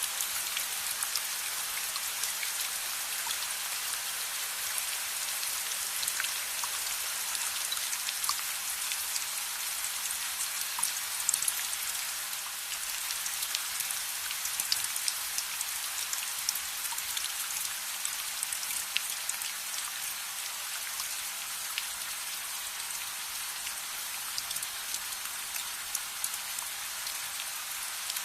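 Steady rain falling: a dense, even hiss with many small sharp ticks scattered through it.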